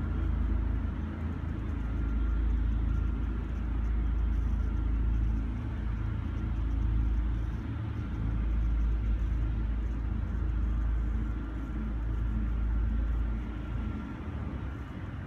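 A deep, steady rumbling drone with a faint thin tone above it, of the kind posted as an unexplained 'strange noise' in the sky; it eases off a little near the end.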